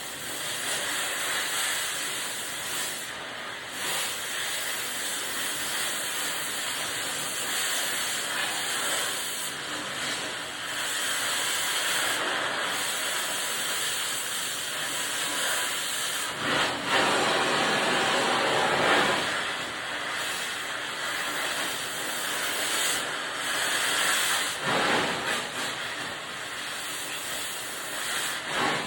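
Cutting torch running with a steady hiss, cutting through steel, its level swelling and dipping now and then.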